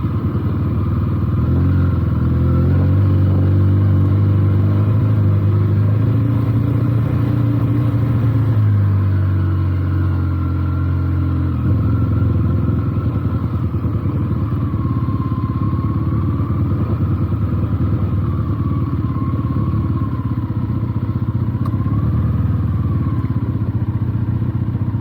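Benelli TNT 300 motorcycle's parallel-twin engine running under way on a rough dirt road. Its pitch rises and falls with the throttle over the first dozen seconds, then holds steadier.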